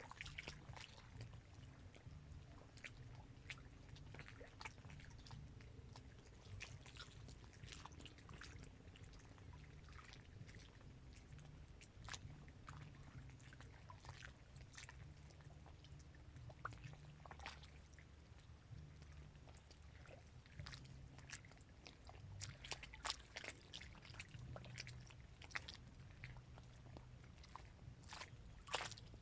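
Small waves lapping at the water's edge of a dam reservoir: faint, irregular little splashes and clicks over a low, steady rumble.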